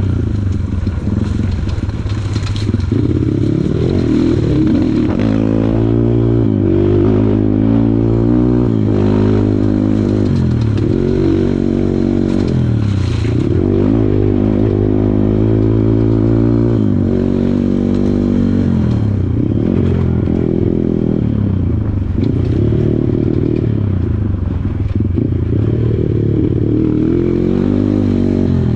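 Kawasaki KLX140 dirt bike's single-cylinder four-stroke engine revving up and falling back again and again, every couple of seconds, as the throttle is worked on a rough trail.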